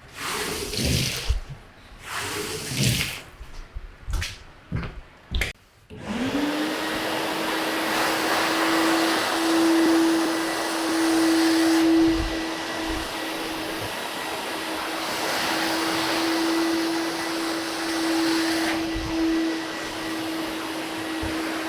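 A few short knocks and splashes, then about six seconds in an electric vacuum-type motor starts. Its whine rises quickly to a steady pitch over a rush of air, and it keeps running.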